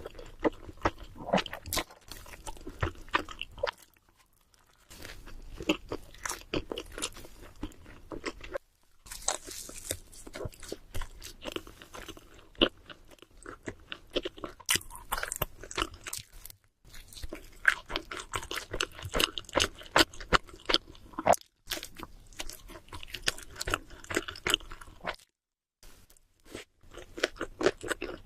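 Close-miked chewing and crunching of cheese seafood pizza: runs of crisp, rapid clicks broken by several short pauses.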